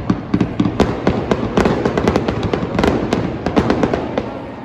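Fireworks going off: a rapid, irregular string of sharp bangs and crackles, several a second, over a continuous low rumble of booms.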